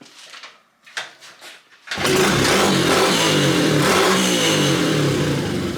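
The single-cylinder engine of a 125cc Chinese pit bike catches about two seconds in and runs loudly, its pitch rising and falling as it is revved. A few faint clicks come before it.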